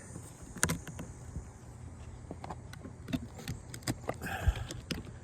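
Scattered light knocks and taps from a phone being handled and set in place, over a faint steady low hum.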